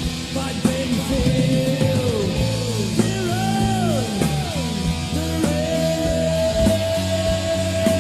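Heavy metal recording: a lead electric guitar plays a solo of bent notes and settles on a long held note about halfway through, over rhythm guitar, bass and drums.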